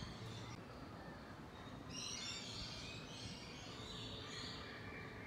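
Wild birds twittering in quick runs of short high chirps, most densely about two seconds in and again near the end, over a faint steady low outdoor hum.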